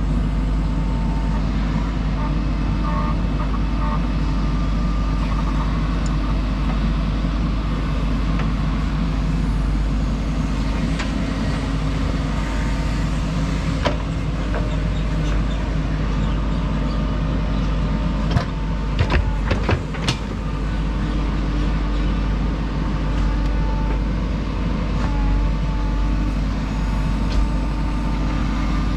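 JCB 3DX backhoe loader's diesel engine running steadily while it works soil, with a quick cluster of sharp knocks about two-thirds of the way through.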